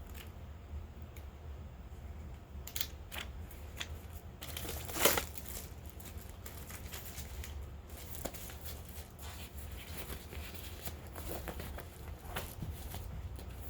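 Packaging being unboxed by hand: paper and plastic crinkling and rustling with small scattered clicks, and one louder, longer rustle like tearing about five seconds in.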